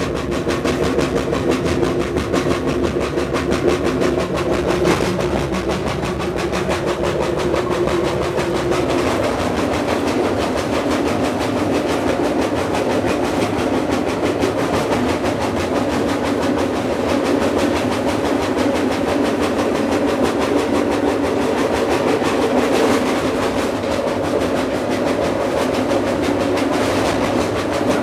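Moving freight train heard from on board a freight car: the steady noise and rattle of the car running on the rails, with droning tones that shift in pitch about nine seconds in.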